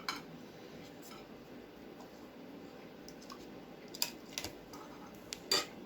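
Light clicks and taps of utensils against dishes as food is served: one just after the start, then a few close together about four seconds in and a louder pair near the end.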